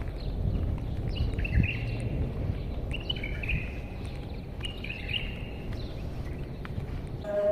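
A bird repeating a short chirping call phrase several times, about every one and a half seconds, over a steady low outdoor rumble.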